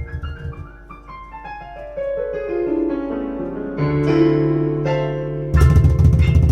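Band music with no vocals: an electric piano or keyboard plays a run of notes falling in pitch and then sustained chords while the drums drop out. The full band with drums comes back in about five and a half seconds in.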